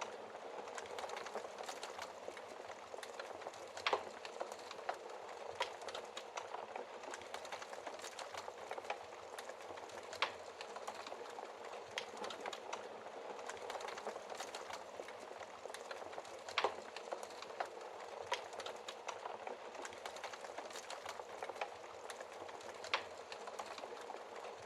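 Wood fire burning in a fireplace: a steady hiss of flames with constant small crackles and an occasional louder pop, a handful of them sharper than the rest.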